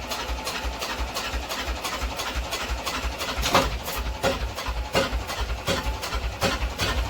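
Sailboat's inboard engine chugging with a fast, steady low pulse, with a sharper knock about every three-quarters of a second.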